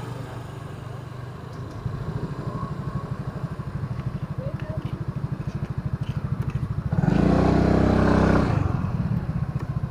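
Motorcycle engine running with a steady pulsing, picking up about two seconds in as it pulls away. Near the end a louder engine swells for about a second and a half, then eases off.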